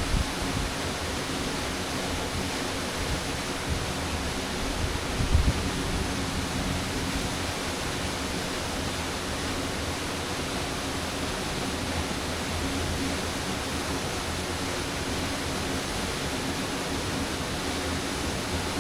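Waterfall: falling water making a steady, even rush with no change in level. A brief low thump comes about five seconds in.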